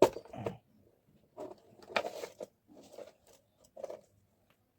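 Hands handling plastic table-fan parts while fitting a screw and nut: a sharp click at the start, then scattered light clicks and rustling.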